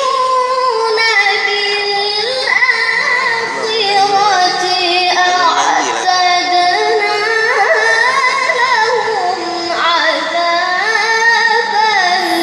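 A child's high voice reciting the Qur'an in the melodic tilawah style. It sings long drawn-out phrases whose pitch winds up and down in ornaments, with short breaths between phrases.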